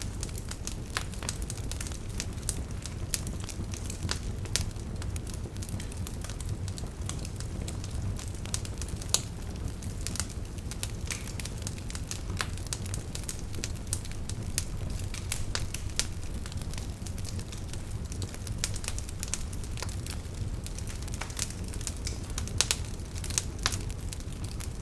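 Wood fire crackling: a low steady rumble of flames with frequent sharp pops and snaps, a few of them louder.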